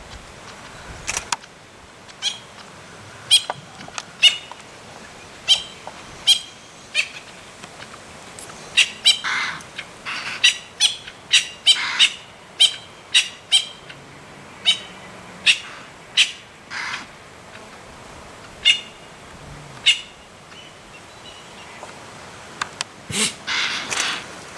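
Wild birds calling: many short, sharp chirps at irregular intervals, with a few longer, lower calls among them.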